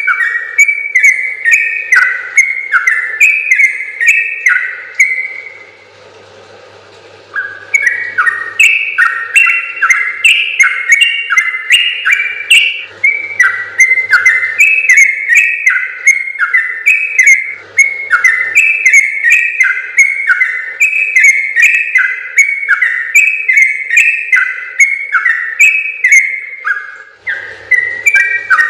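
Yellow-vented bulbul (trucukan) singing a long, fast run of bubbly warbled notes, breaking off briefly about six seconds in and then going on again.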